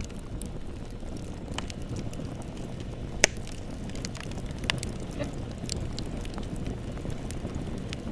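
Wood fire burning with a steady low rumble and scattered crackles and pops, one sharp crack about three seconds in.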